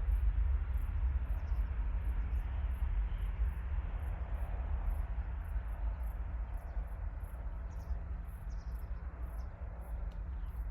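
Fading, low rumble of a departing jet airliner's engines after takeoff, with crickets chirping high and steadily, two to three chirps a second.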